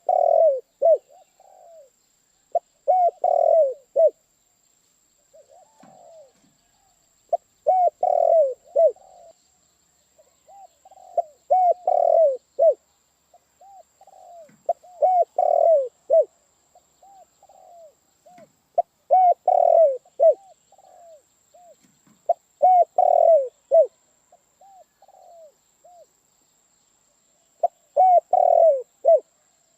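Spotted dove (tekukur) cooing: a loud phrase of several short coos repeated about every four seconds, with fainter coos in between.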